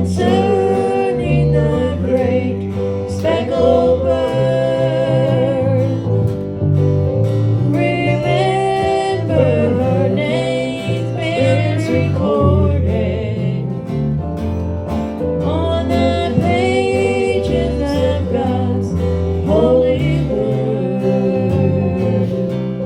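A country gospel song sung by a voice over strummed acoustic guitar.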